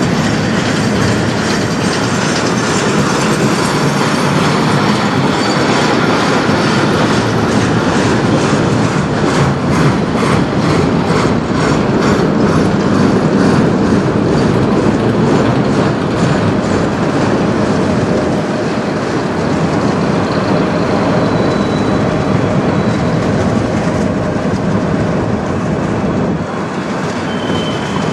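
Freight train of enclosed autorack cars rolling past: a steady rumble of steel wheels on the rails with a rhythmic clickety-clack, and faint high wheel squeals in the second half.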